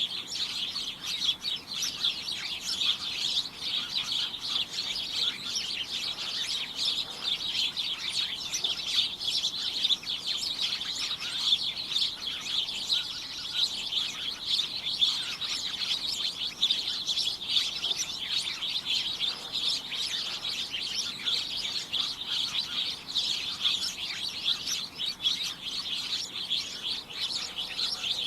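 A flock of small birds chirping continuously, many short overlapping high chirps in a dense, unbroken chorus.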